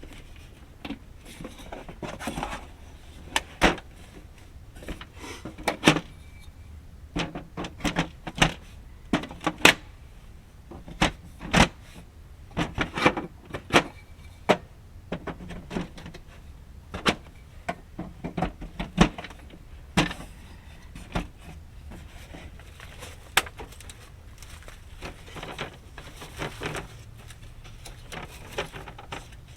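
Irregular knocks, clicks and clatter of camping gear being handled during setup, busiest in the middle stretch.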